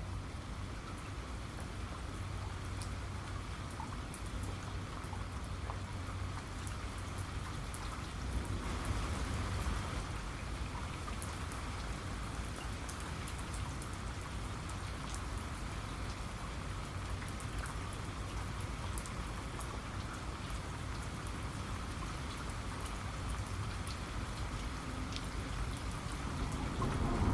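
Steady rain falling, with many scattered close raindrops ticking; it swells slightly about a third of the way in.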